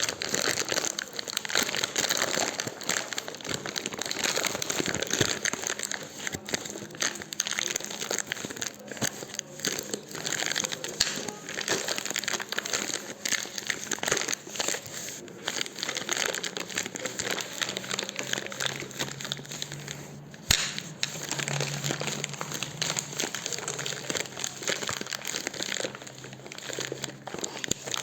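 Campfire burning, wood crackling and snapping continuously in irregular clicks, with one sharp, loud pop about twenty seconds in.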